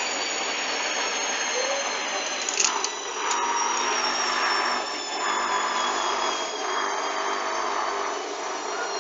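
Hoover washing machine on its final spin with an unbalanced bedding load: the motor's high whine falls slowly as the drum slows, with a swishing surge about every second and a half as the load tumbles round. A few clicks come about three seconds in.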